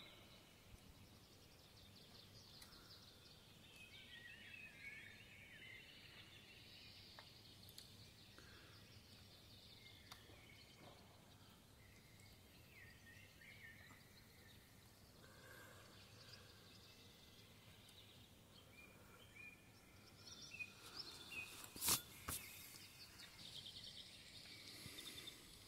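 Faint outdoor quiet with small bird chirps and calls coming and going. Near the end, a sharp double click stands out as the loudest sound.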